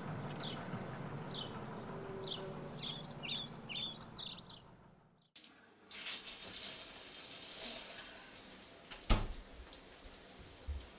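Small birds chirping over and over, short high chirps at first and then quicker, tangled ones, against a low outdoor hum; the sound fades out about five seconds in. Then a quiet indoor background with a single thump about nine seconds in.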